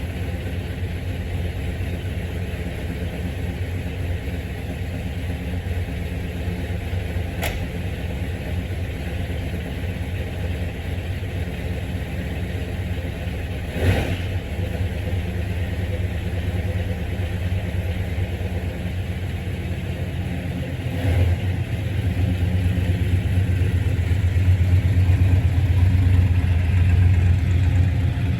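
Car engine idling shortly after a cold start, running louder from about three quarters of the way through as the car is moved. A sharp click about a quarter in and a thump about halfway.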